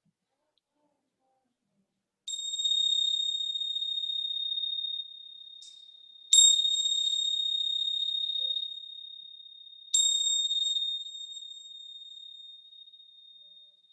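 A small high-pitched bell or chime struck three times, about four seconds apart, each strike ringing on with a long, clear, steady tone that slowly fades. The middle strike is the loudest.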